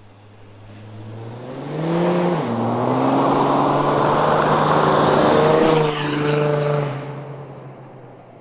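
Audi A7 3.0 TDI V6 diesel with a straight pipe and no muffler, accelerating past. It grows louder, its pitch rises and then drops at a shift about two seconds in, stays loud for several seconds with a brief dip, then fades away.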